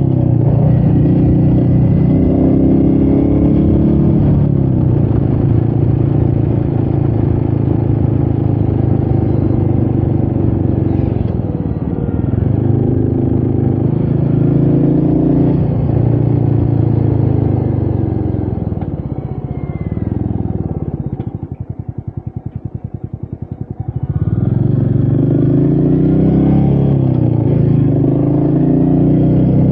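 Royal Enfield Meteor 350's single-cylinder engine under way, its revs rising and falling through several shifts. Around twenty seconds in the revs drop to a slow, even thumping of single firing pulses for about three seconds, then climb again as the bike pulls away.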